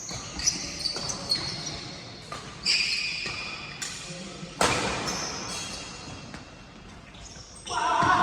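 Badminton rally in a large hall: sharp racket hits on the shuttlecock and shoes squeaking on the court floor, with a louder hit a little past halfway. Voices rise near the end.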